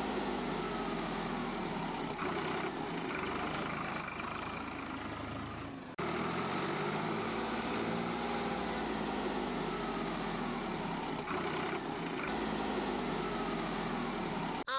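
Mini RC tractor's motor running steadily, with a whine that slides up and down in pitch and a brief break about six seconds in.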